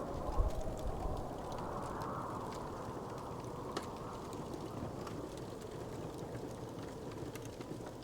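Wood fire crackling: a steady low rush of flames with scattered sharp pops, a low thump about half a second in and a louder pop near four seconds in.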